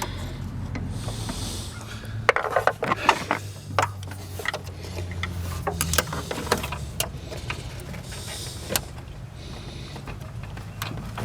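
Small screwdriver prying and scraping at a plastic retaining clip in a car's engine bay: scattered short clicks and scrapes of metal on plastic, over a steady low hum.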